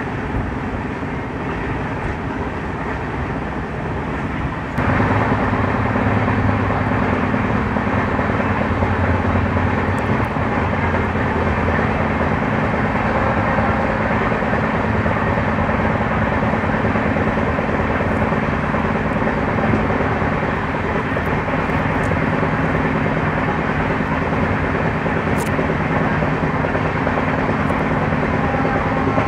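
Passenger train coach running at speed: a steady rumble of wheels on the rails mixed with rushing air and a low steady hum. It jumps suddenly louder about five seconds in and stays loud.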